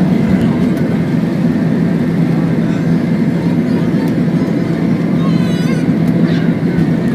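Airbus A321 jet engines running with a steady low drone and constant airflow noise, holding level with no rise or fall.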